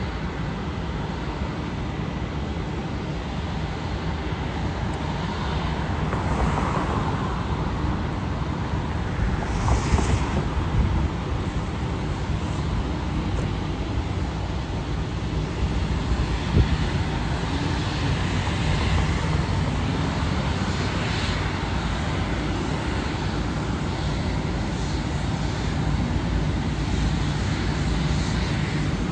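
Jet airliner engines running, a steady low rumble that swells slightly a couple of times.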